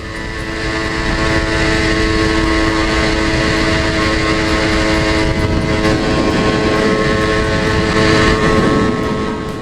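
Yamaha TZR250 (1KT) two-stroke parallel-twin engine running at a steady pitch while the bike is ridden at constant expressway speed. The sound swells up in the first second or so and fades near the end.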